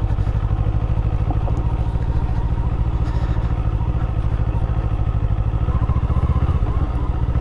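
Kawasaki Eliminator motorcycle engine running steadily under way, with an even pulsing exhaust note.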